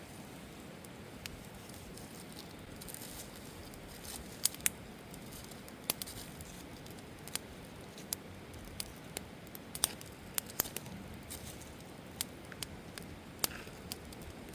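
Wood campfire burning, with irregular sharp crackles and pops over a steady low hiss.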